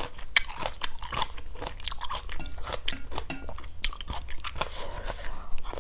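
Close-up mouth sounds of a person chewing a mouthful of chewy, crunchy stir-fried chicken gizzard with rice: a run of irregular crunches and wet chewing with no pauses.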